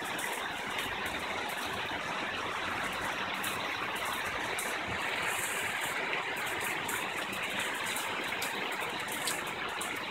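Heavy rain pouring down in a steady, even hiss, with scattered sharp ticks of drops.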